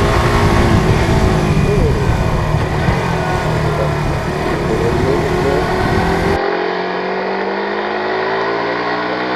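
Suzuki GSX-R150's single-cylinder four-stroke engine running under way, with heavy wind rush over it. About six seconds in the rush falls away and the engine note climbs steadily as it pulls.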